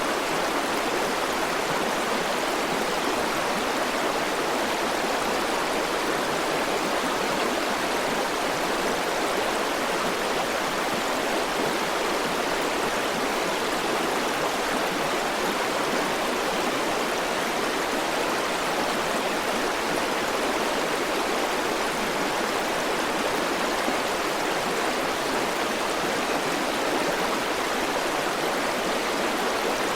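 River water flowing over rocks, a steady, even rushing with no breaks or changes.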